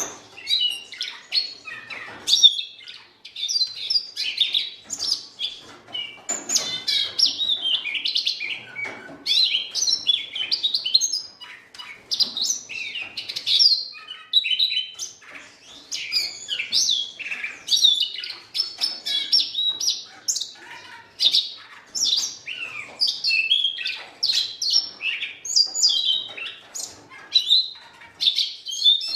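Siberian rubythroat singing a long, varied, high-pitched warbling song: quick phrases of chirps and trills, one after another, with brief pauses between them.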